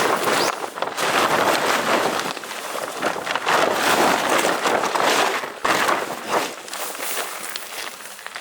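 Heavy wind with rain, a loud rushing noise that swells and fades in gusts every second or two.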